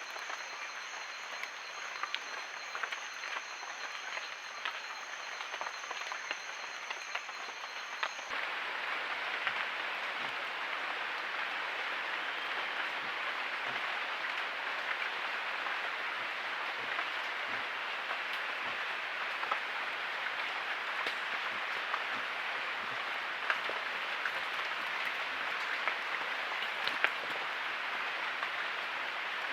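Amazon forest ambience: a continuous high, steady insect drone on two pitches with scattered small clicks. About eight seconds in it switches abruptly to a denser, louder hiss of the forest chorus with occasional sharp ticks.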